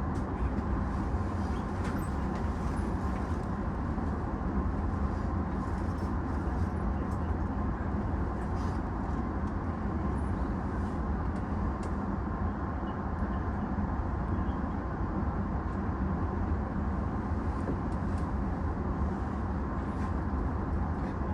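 Steady low hum and noise of a stationary E233-series electric train heard from inside, its onboard equipment running while it stands halted after an emergency stop, with a few faint clicks.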